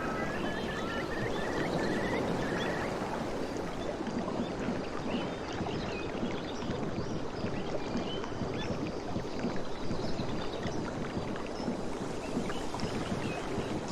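Sea waves washing steadily at the shore, an even rush of water, with a few faint high chirps in the first few seconds.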